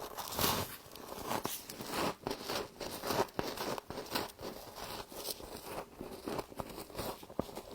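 Humidifier frost being bitten and chewed close to the microphone: many quick, irregular crunches and crackles.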